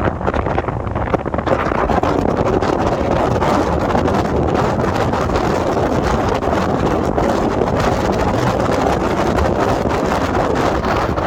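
Loud, steady wind noise on the microphone: a constant low rumbling rush that flickers irregularly, with no distinct tones.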